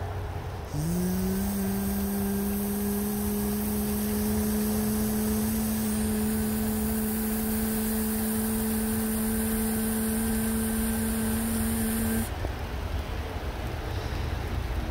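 Steady hiss of rain and sleet falling. About a second in, an unseen machine hum starts, rises briefly in pitch and then holds steady, and it cuts off suddenly near the end.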